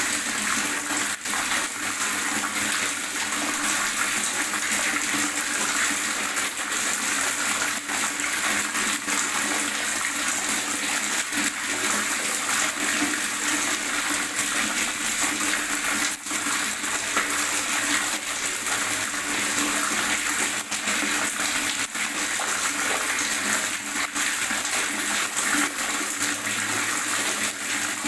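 Water gurgling continuously and evenly, a dense bubbling with many small splashes and no pauses.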